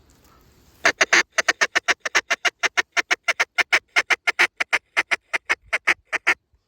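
Rapid, steady string of loud, raspy mallard-style quacks, about seven a second, close to the microphone. The quacks start about a second in and stop abruptly near the end.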